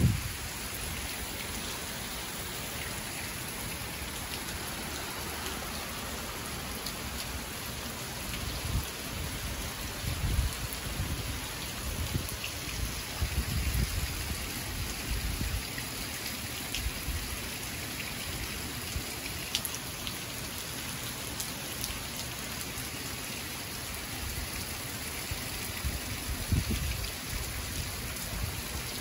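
Steady rain from a tropical storm, an even hiss throughout, with a few brief low rumbles around the middle and near the end.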